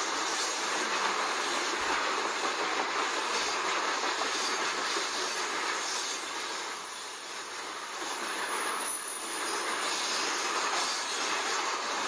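Freight train of covered hopper wagons rolling past: a steady rush of steel wheels on rail. The sound eases slightly about two-thirds of the way through, then picks up again.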